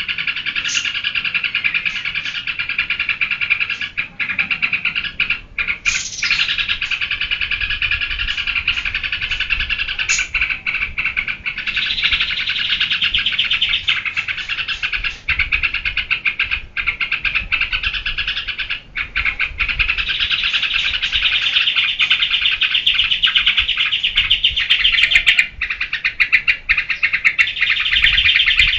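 Yellow-vented bulbul (trucukan) singing in geberan style: a continuous, rapid chattering song with only brief pauses.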